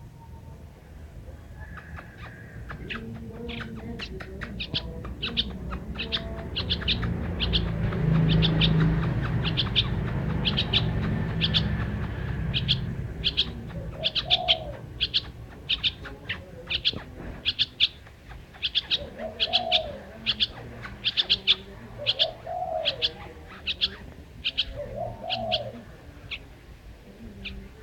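A small bird chirping over and over, about two sharp chirps a second, while a dove coos four times in the second half. A low rumble swells in the middle and is the loudest part.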